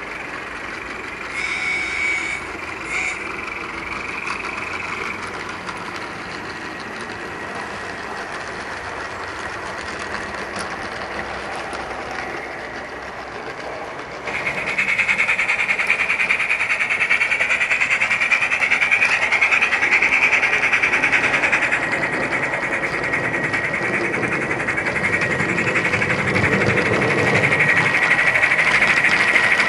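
Gauge 1 model J94 locomotive running, its sound card playing steam sound through the onboard speaker over the noise of its motor and wheels. The sound gets suddenly louder about halfway through and stays louder.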